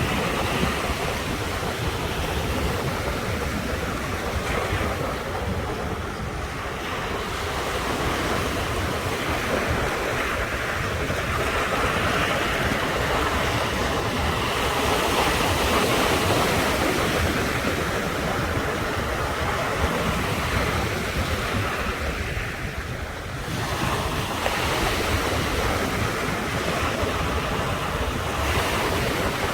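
Sea waves washing and breaking on the shore, a continuous surf that swells louder in the middle and eases briefly near the end, with a steady low rumble of wind on the microphone.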